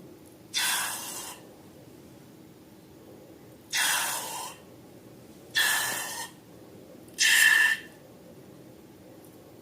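Four short hissing bursts, each under a second, a second or two apart; the last two carry a faint squeaky tone.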